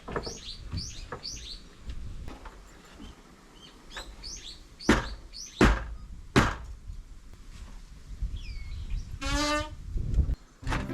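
Small birds chirping in short, repeated downward-sweeping calls. Several sharp knocks come between the calls, and a brief rapid rattle sounds near the end.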